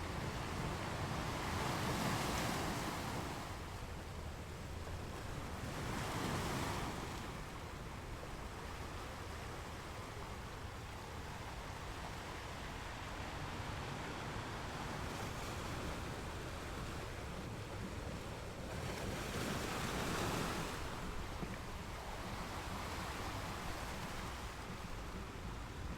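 Ocean waves breaking on a beach, a steady wash of surf with three louder swells.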